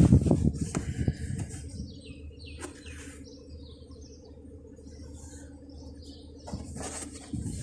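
Nissan Skyline R33's RB20E two-litre straight-six idling steadily, with birds chirping over it. A brief rustling noise comes near the start and again near the end.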